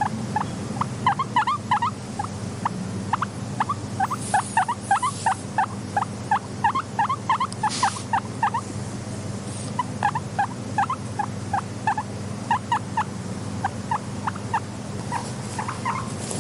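Guinea pig squeaking in quick runs of short, high-pitched chirping notes, several a second, with a brief pause a little after halfway, over a steady low background hum. A few short rustles are heard between the squeaks.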